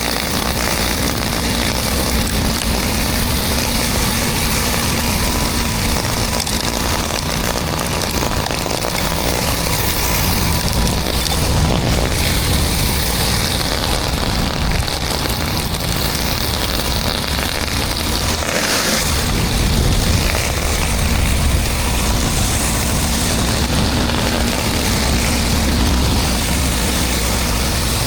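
A 12 GPM engine-driven pressure washer running steadily, with water spraying hard onto concrete. The engine's low rumble dips briefly about two-thirds of the way through.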